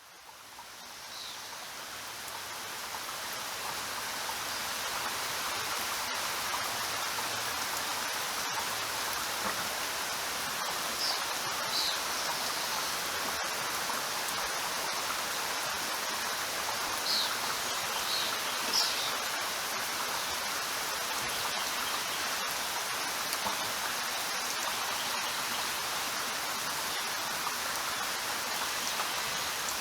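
Steady heavy rain falling, fading in over the first few seconds and then holding even. A few brief high chirps sound over it.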